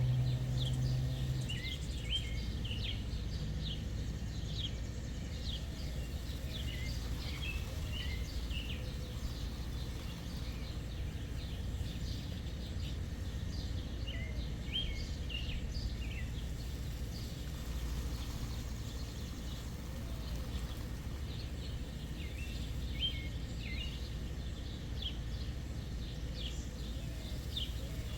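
Small birds chirping, short high chirps in scattered clusters, over a steady low background rumble.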